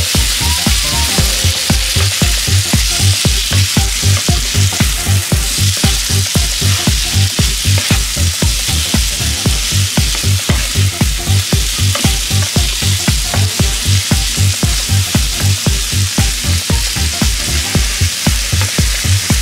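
Corn kernels and diced carrots sizzling in butter in a frying pan, stirred and scraped with a wooden spoon. A steady low beat of background music runs underneath.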